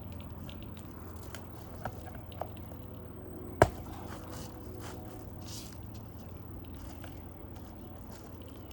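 A hammer striking a roofing nail once, a sharp loud blow about three and a half seconds in, with two light taps a second or two before it, as a raised fastener is nailed flat into the roof decking.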